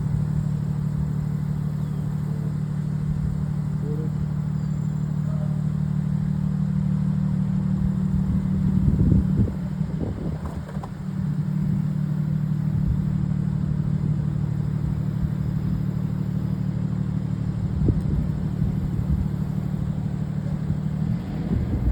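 A motor running steadily at an even pitch, with a brief dip and a few knocks about halfway through.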